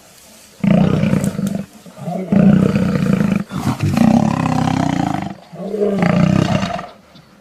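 Wild animals roaring during a fight: four long, loud, low roars in quick succession, with brief pauses between them.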